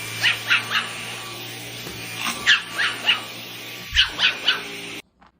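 A dog yipping in three quick groups of short, high-pitched yips, about three yips to a group, over a steady low hum. It stops abruptly near the end.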